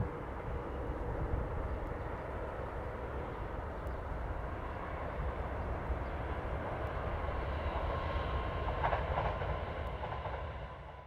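Regional train of double-deck coaches hauled by a DB class 146 electric locomotive, passing with a steady rumble of wheels on the rails. A few higher tones stand out briefly about eight to nine seconds in.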